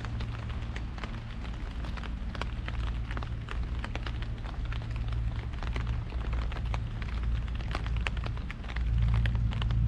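Raindrops tapping on an umbrella overhead in dense, irregular ticks, over a low rumble that swells near the end.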